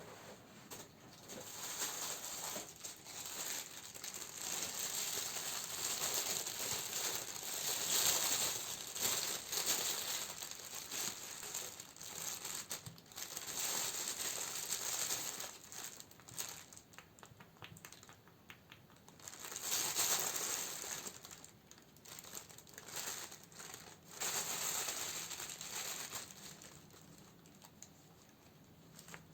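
Plastic and paper packaging crinkling and rustling as candles are handled. It comes in bursts of a few seconds with short quieter pauses between them.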